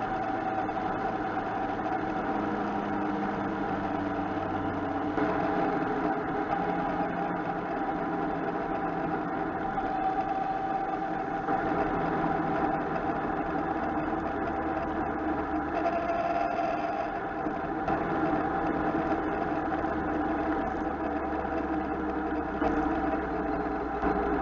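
Motorcycle engine running at road speed, heard through a camera mounted on the bike, with wind and road noise. It is a steady drone whose pitch shifts slightly a few times.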